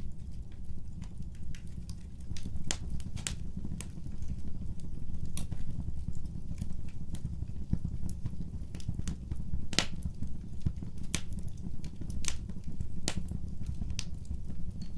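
Wood fire burning: irregular sharp crackles and pops from the burning logs over a steady low rumble, with the loudest pops about ten and twelve seconds in.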